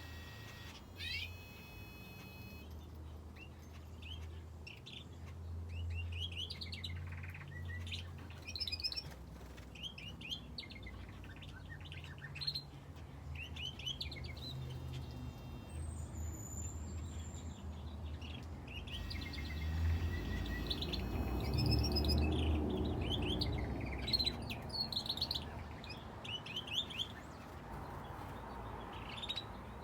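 Finches and a canary in an aviary chirping and calling, many short quick notes overlapping. Under them runs a low rumble that swells and is loudest around twenty seconds in.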